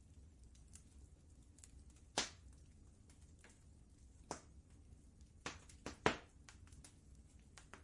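Wood fire crackling: irregular sharp pops and snaps, the loudest about two seconds and six seconds in, over a faint low steady rumble.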